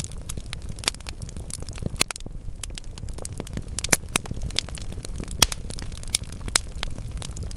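Wood logs burning in a fireplace, crackling steadily with scattered sharp pops over a low rumble of the flames; the loudest pops come about four and five and a half seconds in.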